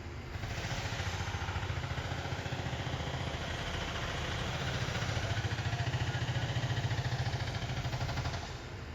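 Diesel locomotive engines working hard: a steady low rumble with a fast, even pulse over a wide rushing noise. It is loudest in the second half and drops away sharply near the end.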